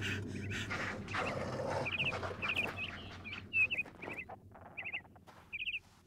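A small bird chirping in quick clusters of two to four short, high notes, repeated roughly once a second. A man's heavy breathing and scuffling in dry dirt run under it in the first couple of seconds.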